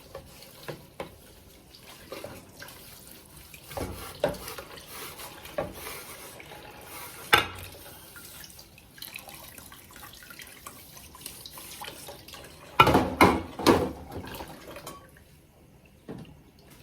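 Water running from a tap into a sink, with small clinks and several loud knocks and clatters about 13 seconds in, as of dishes or pots being handled. The running water stops near the end.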